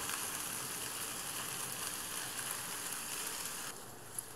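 Halved sausages and toasted bread frying in a nonstick pan, with a steady sizzle that drops away sharply near the end.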